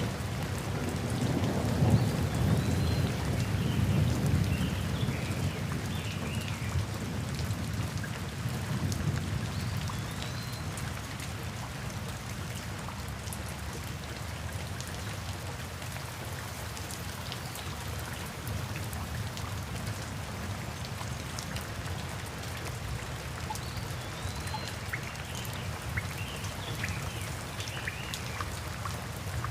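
Steady rain falling, with a low rolling rumble of thunder in the first several seconds that dies away. A few faint high chirps come through the rain near the start and near the end.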